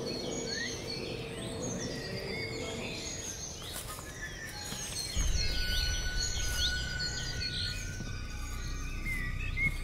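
Many small birds chirping and calling. About five seconds in, a low, dark music drone with a few held tones comes in underneath.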